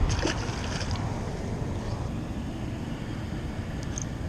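Steady low rumbling outdoor background noise, with a few light clicks near the start.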